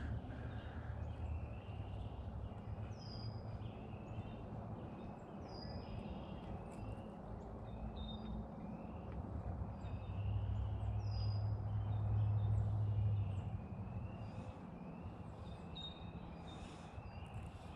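Songbirds calling: short high chirps and quick falling whistles, repeated every second or two, over a low rumble that swells for a few seconds about ten seconds in.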